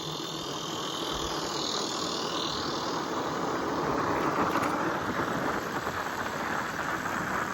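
Steady rushing noise of riding an e-bike on a dirt trail: wind on the microphone and tyres rolling over dirt. It swells a little toward the middle.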